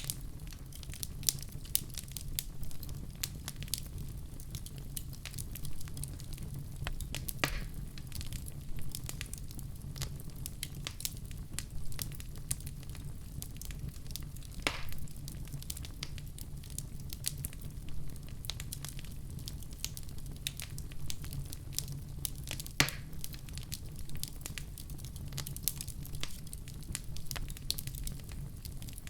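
Fireplace fire crackling steadily over a low rumble of flames, with three louder pops spaced evenly through it.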